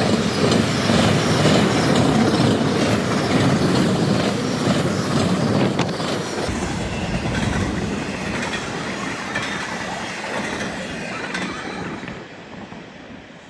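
Train cars rolling past, their wheels clacking over the rails in a regular rhythm. The sound dies away over the last few seconds as the train moves off.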